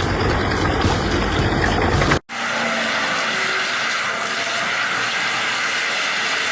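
Heavy forestry machinery running, engine and cutting noise together. About two seconds in the sound cuts off abruptly and a different steady machine noise takes over.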